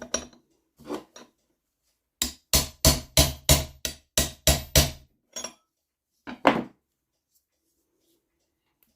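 Hammer tapping on a stuck part of an NSU Quickly moped engine to work it loose: a couple of single knocks, then a quick run of about nine sharp taps, roughly three a second, and a last pair of taps.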